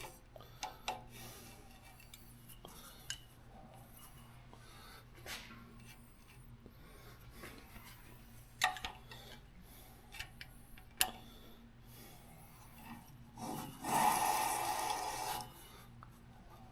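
Scattered metal clinks of hand tools on the rear axle's parts as an adjuster is backed off, then a rough rubbing scrape lasting about two seconds near the end, the loudest sound.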